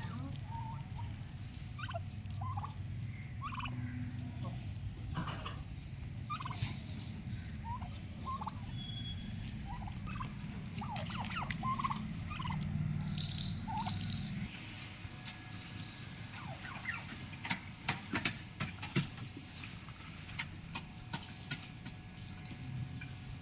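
Male domestic turkey gobbling and calling in short repeated bursts, with two louder, sharper calls a little past the middle. A low steady hum sits under the first half.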